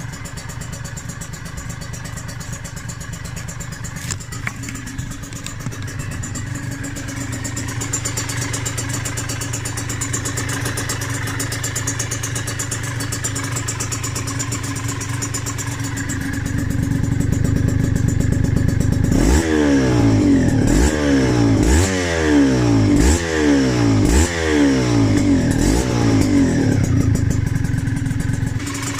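Freshly rebuilt Yamaha DT125R single-cylinder two-stroke engine, exhaling through a DEP expansion-chamber exhaust, running steadily and then, from about two-thirds of the way in, blipped about six times in quick succession, each rev rising and falling.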